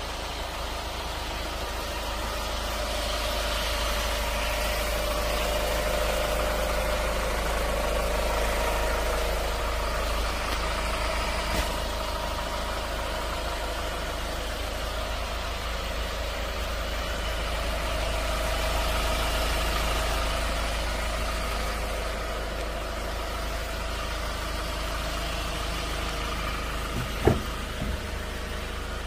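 Steady low engine hum, as of a vehicle idling, with one sharp click near the end as a car door is opened.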